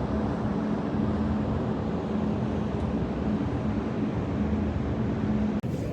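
Steady low engine-like rumble with a constant hum tone, which cuts off abruptly near the end.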